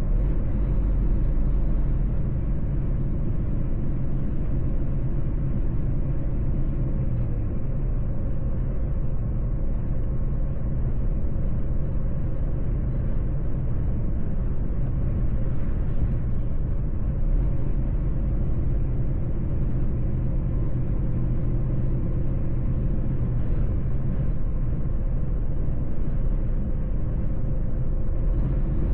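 Mercedes-Benz truck's diesel engine and road noise while the truck drives along: a steady low drone, with a slight shift in the engine note about seven seconds in.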